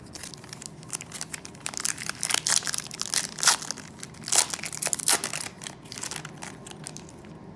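Plastic-foil trading card pack wrapper being torn open and crinkled in the hands: a run of irregular crackles and crunches, loudest in the middle and dying down near the end.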